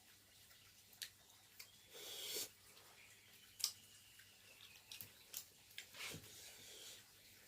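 Faint kitchen handling sounds: scattered light clicks and knocks, with two short rushes of hissing noise, one about two seconds in and one near the end.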